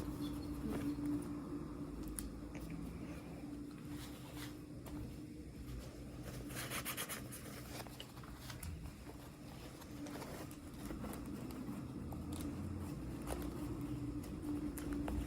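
Small clicks and light handling noises of toy packaging, with a brief crinkling rustle about seven seconds in, over a steady low hum.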